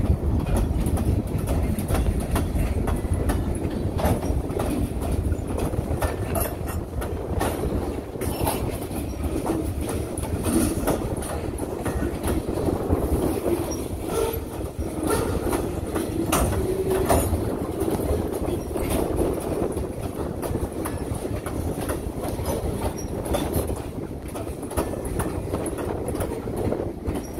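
Freight train's covered hopper cars rolling past at low speed, steel wheels clicking irregularly over the rail joints over a steady low rumble.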